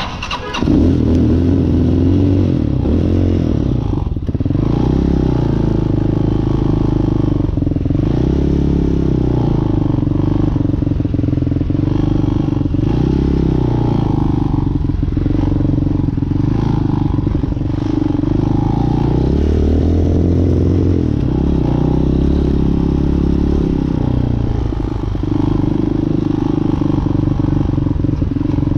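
Hawk 250cc motorcycle engine running while riding, its pitch rising and falling several times as the speed changes.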